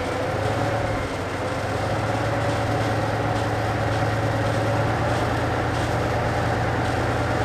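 Diesel engine of a DR1A diesel multiple unit running steadily after start-up: a steady low drone with a faint whine above it.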